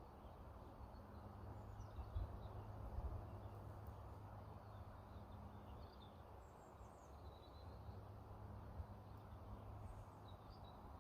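Faint outdoor ambience: a steady low rumble with a few faint bird chirps scattered through it.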